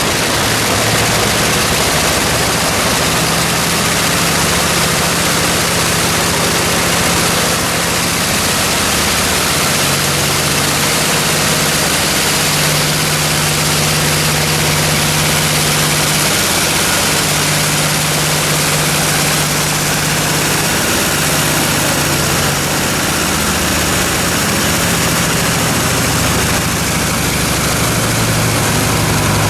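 Nakajima Sakae 14-cylinder twin-row radial engine of an A6M5 Zero fighter running on the ground at low power, propeller turning. It is a loud, steady drone whose low pitch wanders slightly up and down.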